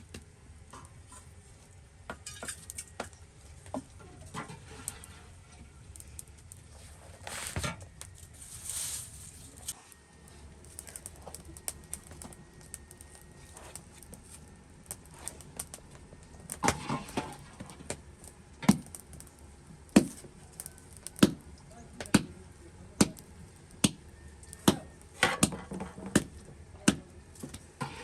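Chopping on a hard surface: scattered knocks and rustling, then a steady run of sharp chopping strokes about one a second through the second half.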